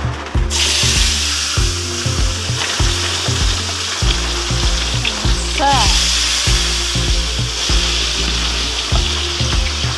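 Sliced bitter gourd sizzling as it fries in hot oil in a wok. The sizzle sets in sharply about half a second in and then holds steady.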